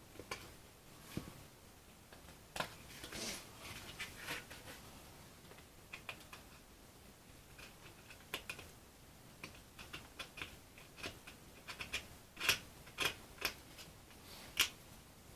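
Scattered light clicks, taps and short scrapes of hands and small hobby tools working on a balsa model airplane's control surfaces and covering, with a run of sharper clicks near the end.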